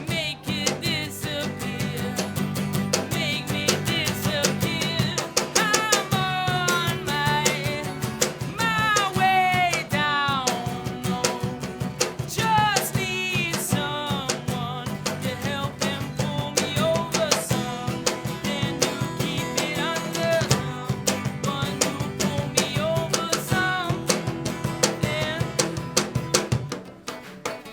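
A live band playing a song on drum kit and guitars, with a steady beat and bass. The sound drops somewhat in level near the end.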